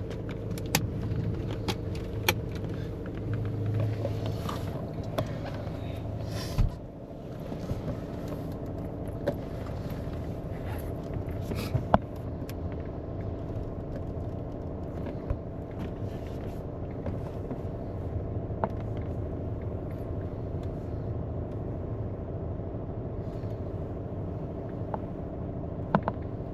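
Inside a moving car: steady engine and road hum, with a few scattered small clicks and knocks.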